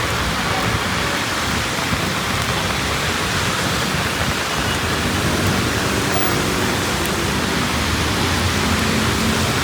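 Steady rainfall, a dense even hiss with no breaks.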